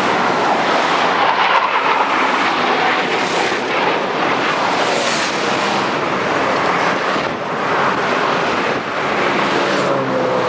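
Military aircraft flying low overhead: loud, steady rushing engine noise, with two brief hissing swells a few seconds in and a faint tone falling in pitch near the end.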